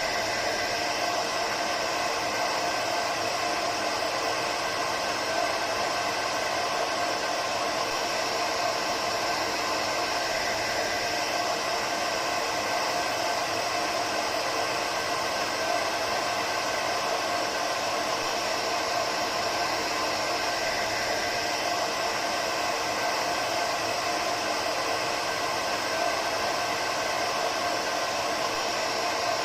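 Hair dryer running steadily: an even, unchanging rush of air with a faint motor whine.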